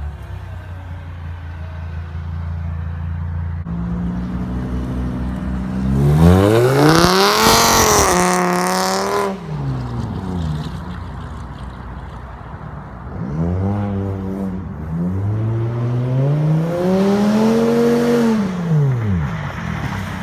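A front-wheel-drive car's engine running steadily, then revved up and back down twice while the car is driven to slide on snow. The first run-up, in the middle, is the loudest and comes with a rushing noise.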